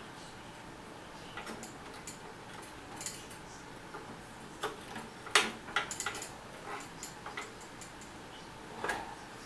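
Irregular light metallic clicks and knocks from a restored pressed-steel Tonka toy crane being handled and worked, with a denser, louder run of clicks about five to seven seconds in and another knock near the end.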